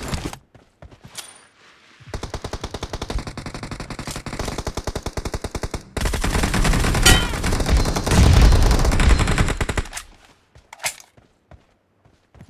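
Video-game automatic gunfire: a rapid, even burst of machine-gun fire for about four seconds, then heavier, louder firing for about four more. A couple of single shots come near the end.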